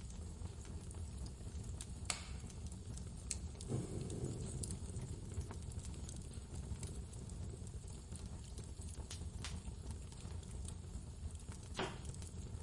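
Steady low blizzard wind with a wood fire crackling over it, giving a few scattered sharp pops. The wind swells briefly about four seconds in.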